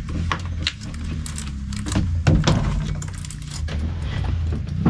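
A steady low engine hum with scattered knocks and clicks over it.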